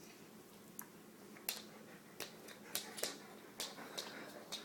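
A pet handling a piece of bread: about eight short, sharp clicks and crackles, irregularly spaced, with quiet between them.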